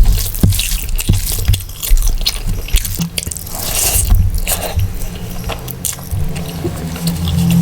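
A person chewing and biting mouthfuls of mutton biryani close to the microphone, with many short wet clicks and smacks. A low steady hum comes in about three seconds in and grows louder near the end.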